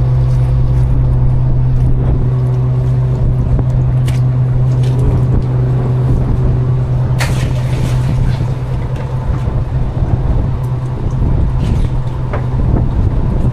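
A fishing boat's engine running with a steady low hum. Its higher tones fade about five seconds in, leaving a rougher rumble, and a few sharp knocks come through, the loudest about seven seconds in.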